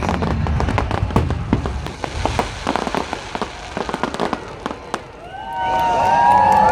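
Fireworks display: dense, rapid crackling and popping of bursting shells, thinning somewhat in the middle. Near the end, rising pitched tones come in over the crackle.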